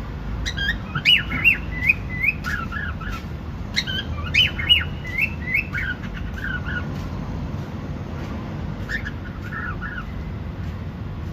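Cockatiel chirping and whistling: quick runs of short sliding notes in three bursts with pauses between, over a low steady background hum.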